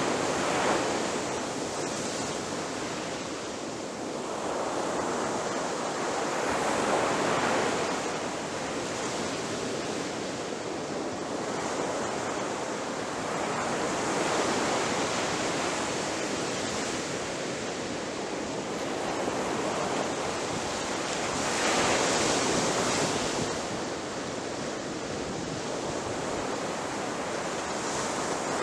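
Ocean waves breaking on a shore: a continuous rushing surf that swells and falls back every few seconds, with the strongest break about 22 seconds in.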